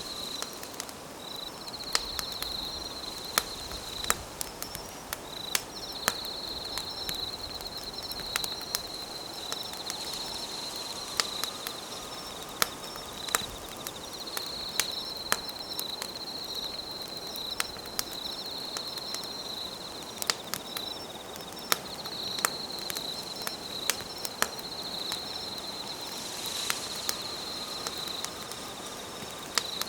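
Campfire burning with a low hiss and sharp, irregular crackles and pops. Over it, an insect trills steadily at a high pitch in long phrases broken by short pauses.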